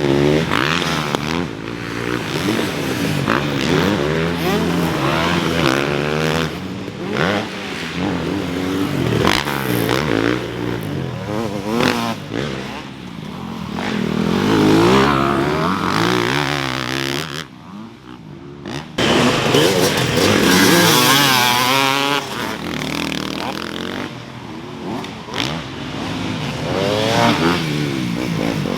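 Motocross dirt bikes racing around a track: several engines revving hard, their pitch climbing and dropping as the riders shift and pass. It eases off briefly about two-thirds of the way through, then picks up again.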